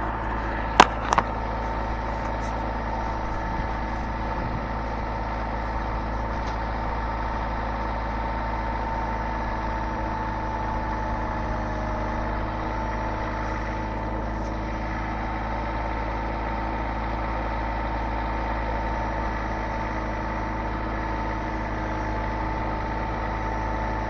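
Tractor engine running at a steady speed, with two sharp knocks about a second in.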